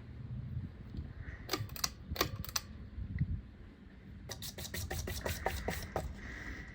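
Sharp mechanical clicks over a low steady hum: a few separate clicks about a second and a half in, then a quick run of clicking from about four to six seconds in.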